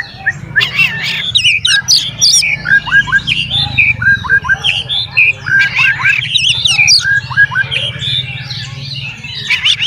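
Oriental magpie-robin singing a fast, varied song of whistles, sliding chirps and harsher squawky notes, with short falling whistles repeated in little runs, over a steady low hum.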